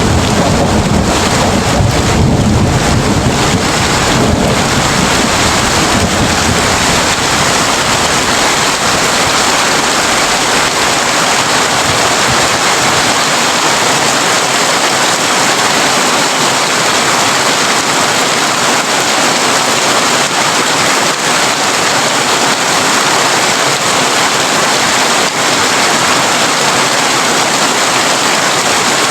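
Heavy rain drumming steadily on a tin roof. A low rumble of thunder sits under it at the start and fades out over the first dozen seconds.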